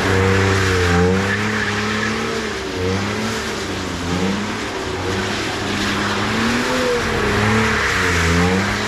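BMW E46 320i's M54B22 2.2-litre straight-six heard from inside the cabin, its revs rising and falling again and again as the throttle is worked through drift attempts, over a steady hiss.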